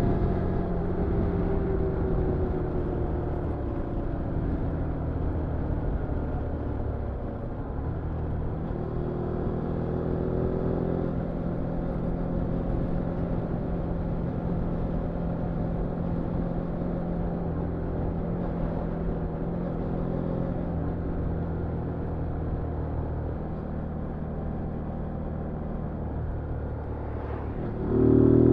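2022 Zontes G1 125 Scrambler's single-cylinder engine with its revs falling over the first several seconds, then running low and steady. Near the end the throttle opens sharply and the revs climb.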